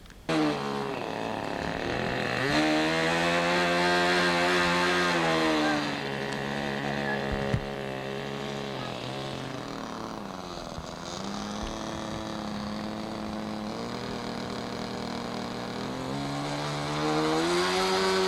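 Radio-control model airplane's small engine buzzing at a high pitch, starting abruptly, then rising, falling to a lower pitch for a while and climbing again near the end as the throttle changes.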